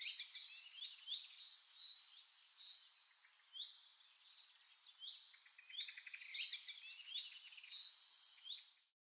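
Several small birds chirping and singing together in a busy chorus of short, high chirps and rapid trills. The sound cuts off suddenly just before the end.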